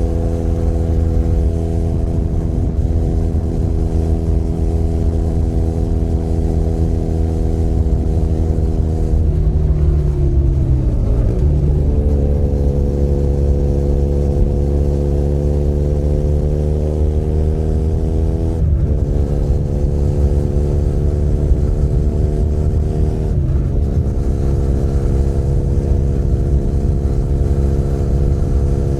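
Benelli Leoncino 500 Trail's parallel-twin engine heard from the rider's seat, cruising steadily and then easing off so the revs fall. It picks up again and pulls through the gears, with two upshifts where the pitch drops sharply, then settles into a steady cruise.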